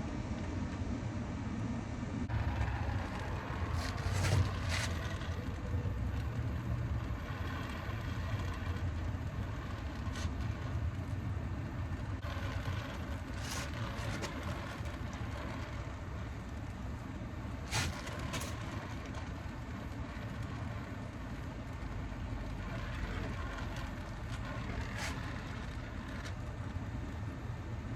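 Steady low mechanical rumble with a handful of sharp clicks scattered through it.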